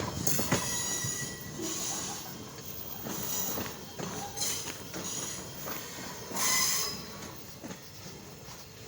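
Freight train cars rolling past, wheels squealing against the rails in several short bursts over a steady rumble; the loudest squeal comes about six and a half seconds in.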